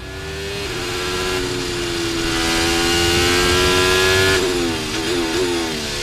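Formula 1 car engine at high revs, its pitch climbing slowly under acceleration, then lifting off sharply about four seconds in, with a few quick rises and falls in pitch that sound like downshifts.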